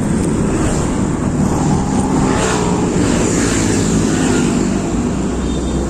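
Steady road traffic and vehicle engine noise, with engine pitch rising and falling and a vehicle passing about midway.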